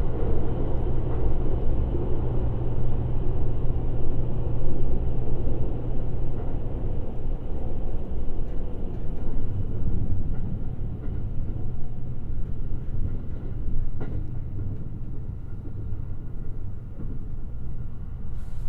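Limited Express Shirasagi electric train running on the rails, heard from inside: a steady low rumble of wheels and track that grows a little quieter in the second half, with a faint single tick about fourteen seconds in.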